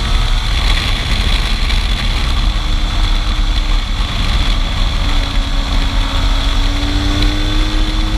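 Motorcycle engine running at a steady road speed, its pitch drifting slightly, under heavy wind rumble on the microphone.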